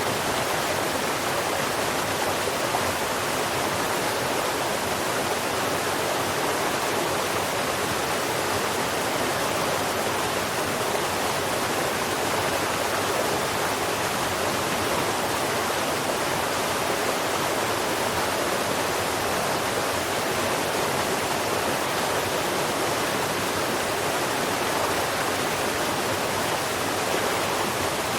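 Steady rushing noise of flowing water, like a stream or waterfall, unchanging throughout, with no bird song standing out.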